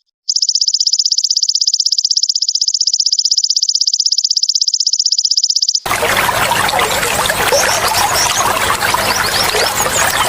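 Belalang emas insect song: a fast, even pulsing buzz that stops about six seconds in, where trickling, splashing water takes over.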